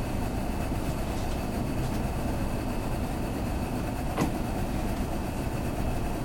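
Cabin noise of a Kintetsu limited express train running on the rails as it nears a station stop: a steady low rumble, with one sharp click about four seconds in.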